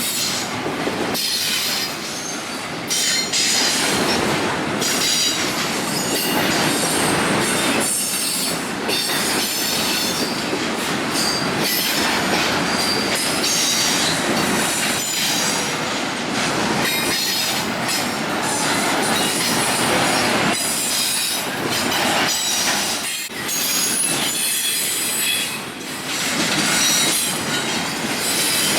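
Freight train cars rolling past on steel rails, the wheels squealing in high steady tones over a continuous rumble, with repeated clicks as the wheels cross rail joints.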